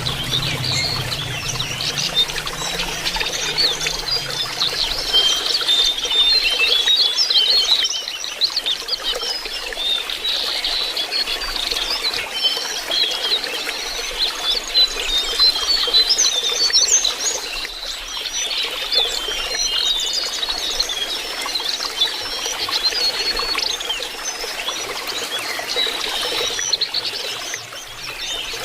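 Lesser shortwing (jongkangan) singing in a dense, unbroken run of short, high chirps and twitters.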